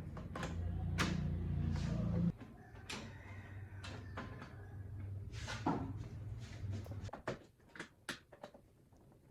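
Scattered light clicks and knocks of small hard parts being handled, over a low hum that drops off sharply about two seconds in.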